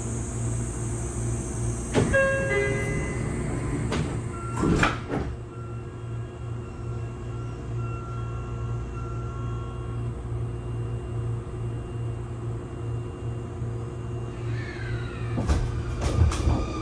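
Sotetsu 20000 series train at a station: a door chime sounds, then the sliding doors close with a loud knock about five seconds in, over the car's steady hum. Near the end, the Hitachi hybrid SiC VVVF traction inverter starts up with a whine whose tones glide down, with a few clunks as the train begins to move off.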